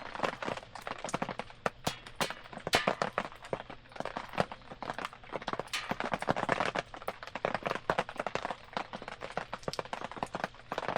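Wood campfire crackling, with many sharp irregular snaps and pops.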